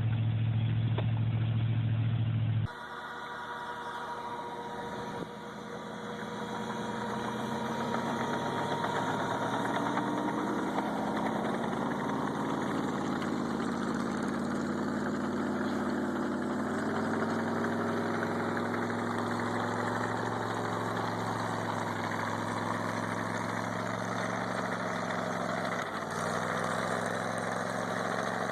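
Vehicle engine running, its pitch drifting up and down. About three seconds in, an abrupt cut switches from a low steady hum to a fuller engine sound, which grows louder over the next few seconds and then holds.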